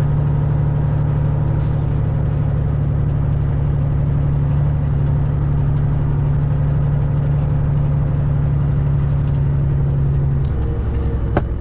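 Semi truck's diesel engine running with a steady low drone. About ten and a half seconds in, the engine note drops lower, and a sharp click follows.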